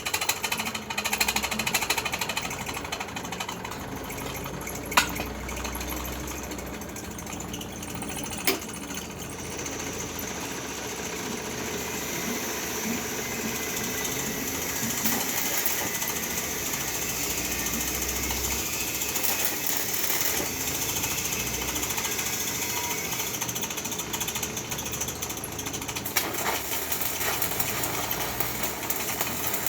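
Electric arc welding crackling continuously, thicker and hissier from about ten seconds in, with two sharp clicks before that.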